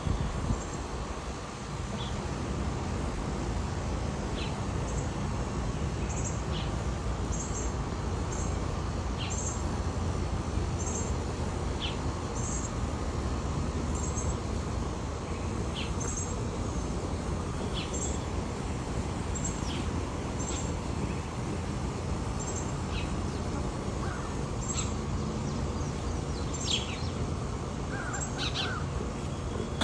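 Birds calling: short high chirps repeating about once a second, with a few down-slurred notes, over a steady low background rumble.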